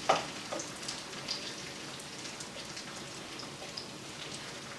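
Breaded okra frying in hot oil in a cast-iron skillet: a steady crackling sizzle. It is joined by a few light knocks and scrapes of a plastic spatula against the pan in the first second.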